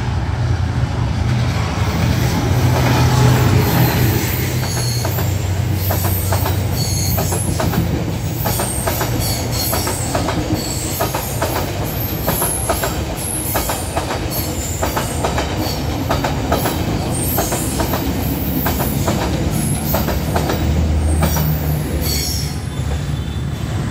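Passenger train hauled by a D19E diesel-electric locomotive passing a level crossing. The locomotive's low engine drone is loudest in the first few seconds, followed by the coaches' wheels clicking over rail joints with scattered high squeals. The sound eases off a little after 21 seconds as the last coach goes by.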